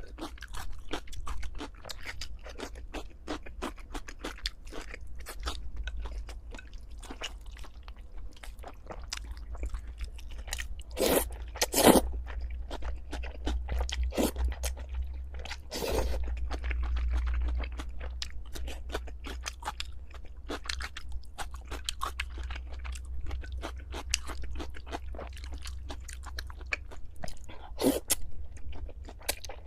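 Close-miked eating sounds: a person chewing and crunching food in a steady run of small crackles and mouth clicks, with a few louder crunching bites about a third of the way in, around halfway, and near the end.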